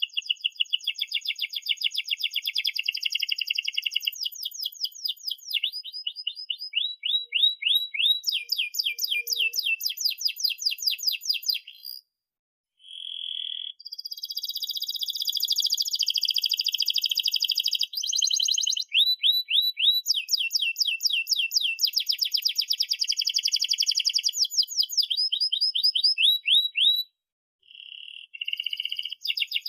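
Domestic canary singing a long song of fast rolling trills and rapid repeated high chirps, phrase after phrase, with two short breaks: one about twelve seconds in and one near the end.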